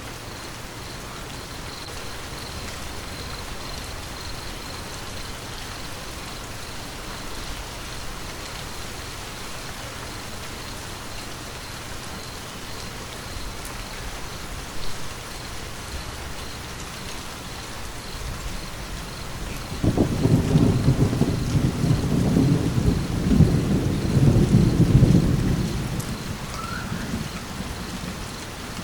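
Steady rain falling, with a roll of thunder that breaks in suddenly about two-thirds of the way through, rumbles low and loud for several seconds, then fades out near the end.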